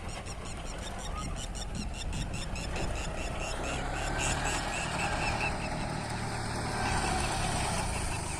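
Tractor engine running steadily. A fast, regular ticking rides over it for the first half.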